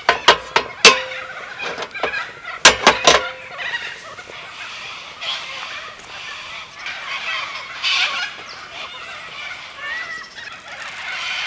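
Birds calling, with a cluster of sharp knocks in the first second and another cluster about three seconds in.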